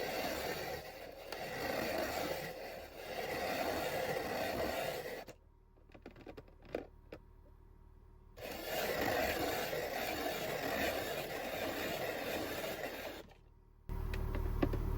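Ice being shaved in a kakigori (shaved-ice) maker, a rough scraping grind. It comes in two stretches with a pause of about three seconds between them, and there are a few clicks in the pause. Near the end a steady low hum starts suddenly.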